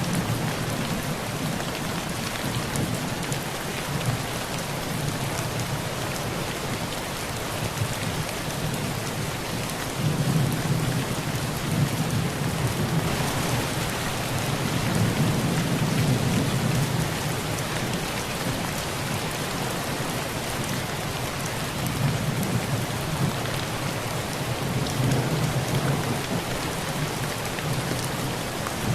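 Heavy rain falling steadily on a tin roof, with low thunder rumbling that swells twice: once about a third of the way in and again later on.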